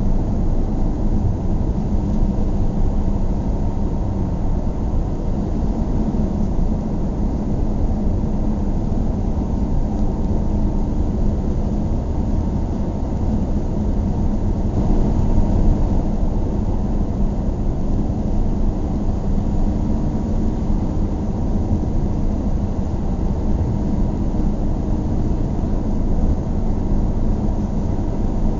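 Car driving at a steady pace: a continuous low rumble of engine and tyre road noise, with no change in speed.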